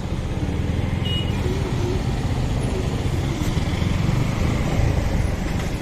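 Motorcycle running as it is ridden through town traffic, with a steady low wind rumble on the rider's microphone.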